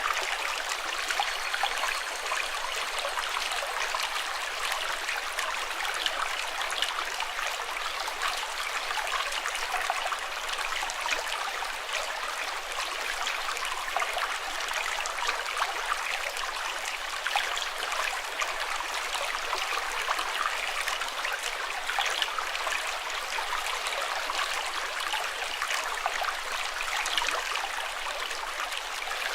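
Water flowing steadily, a continuous splashing hiss like a stream, with small splashes all through and no break.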